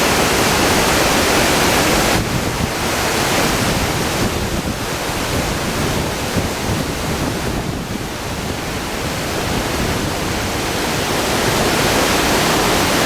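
Steady rushing roar of the Krimml Waterfalls, a loud, even noise that dips slightly in level a few times.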